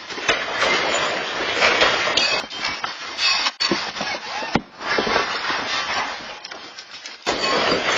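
Rattling and clattering of a building and the objects in it shaking during a strong earthquake, loud and continuous, broken by sudden changes a few times where the footage cuts.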